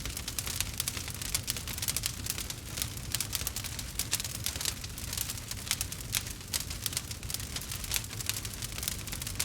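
Campfire burning with a steady low rumble and dense, irregular crackling and popping of the wood.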